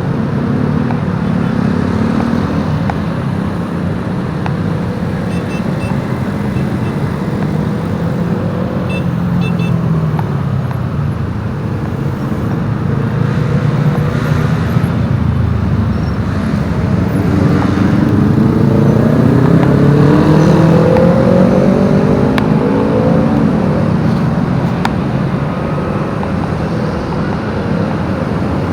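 Motorbike engine running while riding, with wind and road noise. The engine pitch drops about a third of the way in. It then climbs for several seconds past the middle as the bike speeds up, and eases off near the end.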